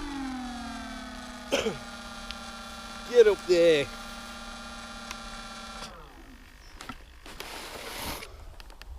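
The model plane's electric motor whirs down in pitch and settles into a steady low hum, which cuts off about six seconds in. Short gliding vocal sounds come over it, once near 1.5 seconds and twice more just past the three-second mark.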